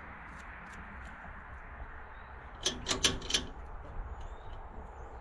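A quick run of about four sharp metallic-sounding clicks or knocks about halfway through, over a steady low background noise.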